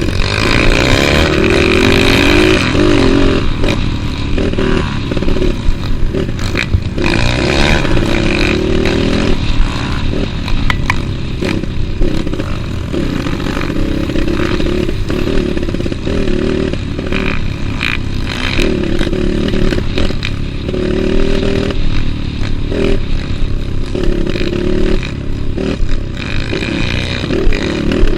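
Trail motorcycle engine revving up and falling back again and again as it is ridden, with frequent short knocks.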